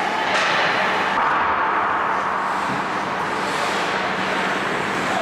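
Steady ice hockey rink noise: a constant hiss-like wash with a brief brighter scrape about half a second in, over a steady low hum.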